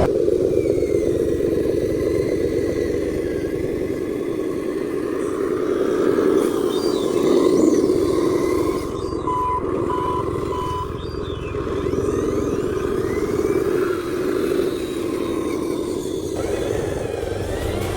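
Radio-controlled dump truck running, a steady mechanical drone of its motor and drivetrain. Three short beeps come about halfway through.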